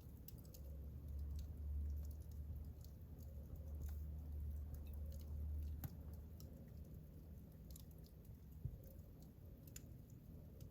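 Wood fire burning in a fireplace: scattered small crackles and pops over a low, soft rumble of the flames.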